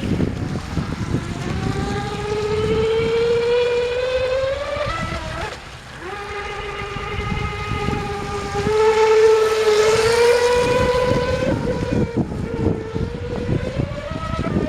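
Whine of a Pro Boat Stealthwake R/C boat's Rcharlance 3900KV brushless motor running on a LiPo battery. The pitch climbs with throttle, drops away briefly about five and a half seconds in, then climbs again to its highest about ten seconds in and eases off. Wind buffets the microphone throughout.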